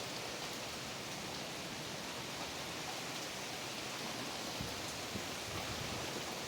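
Steady rain falling in a thunderstorm, an even hiss with no thunder clap.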